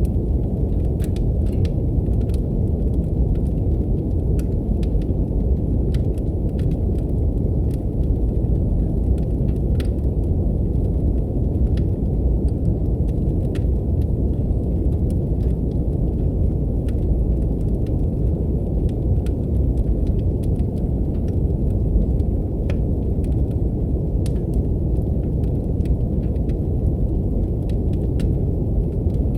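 Steady brown noise, a deep even hiss heaviest in the low end, layered with a wood fire crackling in a fireplace: many faint irregular pops and snaps.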